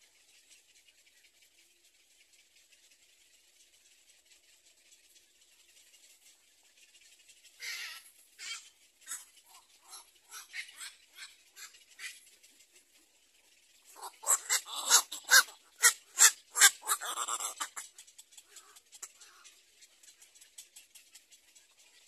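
A bird calling: scattered short notes, then a loud run of rapid harsh notes, about three a second, lasting a few seconds. A faint steady high hiss lies under it.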